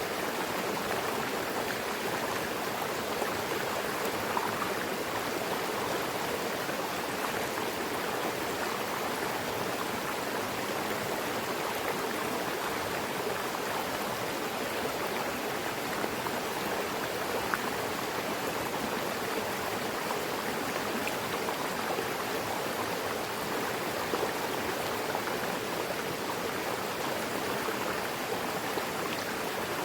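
Mountain river rushing and splashing over rocks, a steady water noise.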